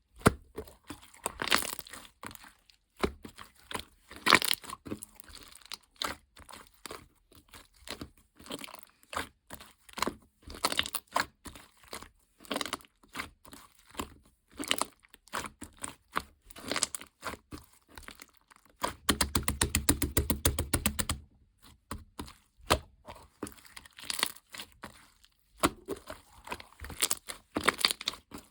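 Close-up handling of paper and plastic packaging: crinkling, rustling and tearing with small taps and clicks in irregular runs. A denser, continuous rustle lasts about two seconds, past the middle.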